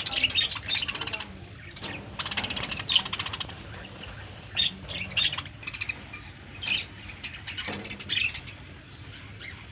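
Small birds chirping in repeated short calls, clustered in quick runs with short gaps between them.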